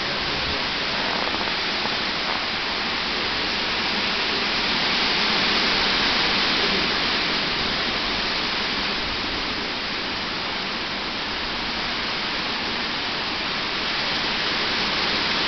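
Strong storm wind blowing: a steady rushing hiss that swells about a third of the way in and eases off a little after the middle.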